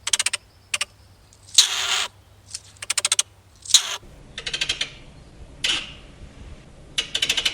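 Stoat calling: several rapid trains of sharp clicks, each followed by a short, harsh, strained call.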